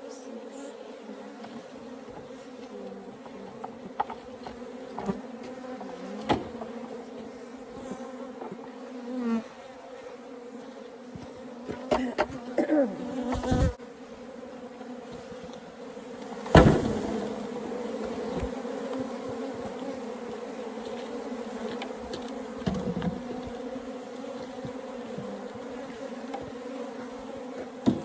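A disturbed colony of Africanized honey bees buzzing in a steady hum, with single bees whining past close by. Several knocks and thuds cut through it; the loudest comes about two-thirds of the way through.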